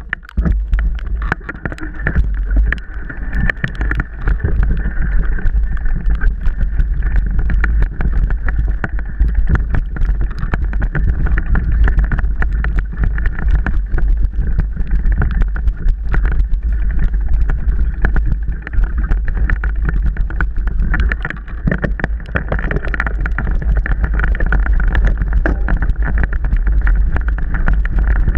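Mountain bike ridden over a rough, wet trail: a constant low rumble of wind on the microphone with dense rattling and knocking from the bike and the ground, without a break.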